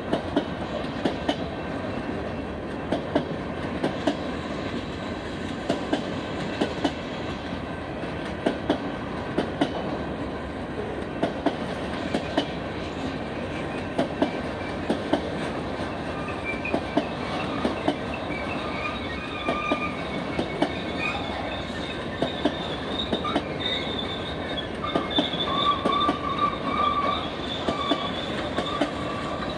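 Freight cars of a long manifest train rolling past, the wheels clacking over rail joints in a steady rhythm. From about halfway through, wheels squeal high and thin, loudest near the end.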